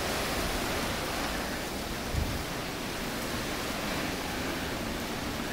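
Steady rushing noise of blizzard wind, with a brief low thump about two seconds in.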